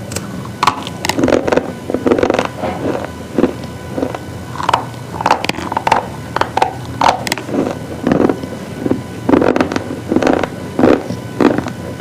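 Hard, brittle pieces being bitten and chewed, a string of sharp, irregular crunches in quick clusters over a steady low hum.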